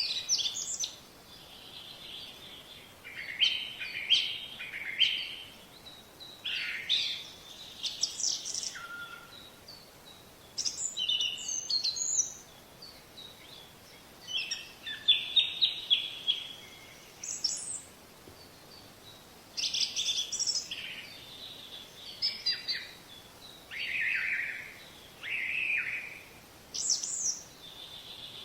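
Small songbirds chirping and singing in short, high, quickly sweeping phrases, a new burst every second or two.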